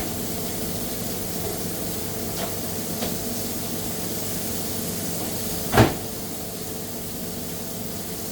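Steady hum and hiss of a fast-food kitchen, with a couple of light knocks and one sharp clatter about six seconds in.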